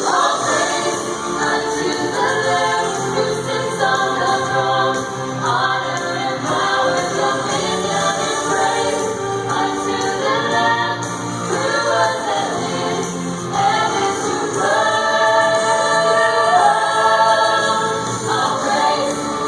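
A choir singing a gospel song with many voices in sustained, held chords.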